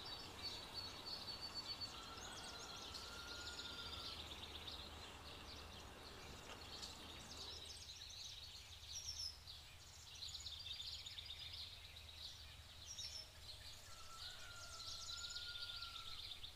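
Faint birdsong: several birds chirping throughout, with two longer whistled notes, one near the start and one near the end, over a steady low background noise.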